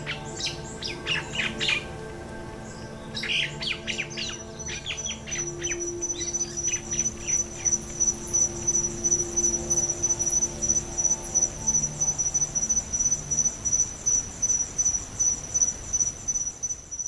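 Mynah birds chirping and chattering in a dense flurry over the first few seconds. Then an insect's high, steady trill takes over, pulsing about twice a second.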